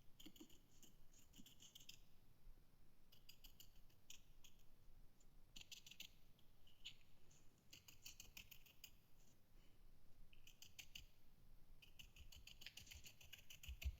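Faint, quiet dabbing and scratching of a paint sponge on foam board, in repeated short runs of light strokes with brief pauses between them.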